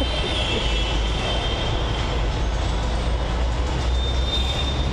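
Metro train running on the track: a steady low rumble with a thin high whine over it in the first second and again about four seconds in.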